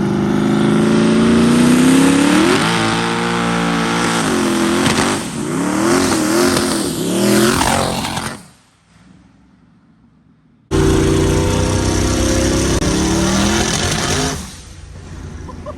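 Powerful car engine at full throttle, screaming, its pitch climbing and stepping with gear shifts. It drops away about eight seconds in, and a second full-throttle run starts abruptly a couple of seconds later.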